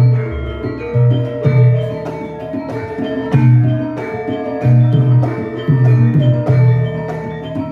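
Javanese gamelan ensemble playing: bronze metallophones ring sustained, layered notes over deep drum strokes that fall about once a second.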